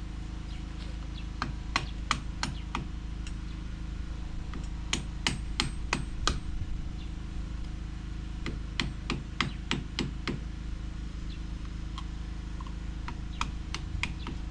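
Hammer striking in four short bursts of several quick blows each, with pauses between them.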